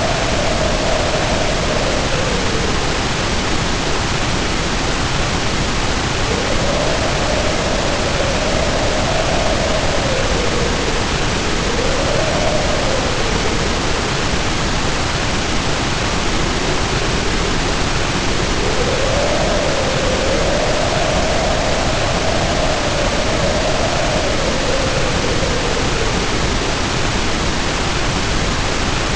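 Heavy rain pouring in a steady hiss, with wind howling over it in slow moans that rise and fall in pitch several times.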